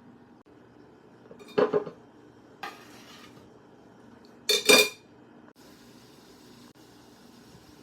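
Kitchen dishes and utensils clattering: two loud clinks about three seconds apart, with a lighter knock between them.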